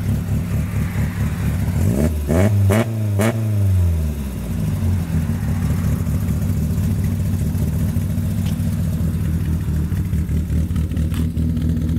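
Carburetted, naturally aspirated four-cylinder engine of a 1995 VW Parati Surf idling through a 4-into-1 header and 2-inch exhaust. About two seconds in, it is revved once, climbing quickly and falling back to idle over about two seconds.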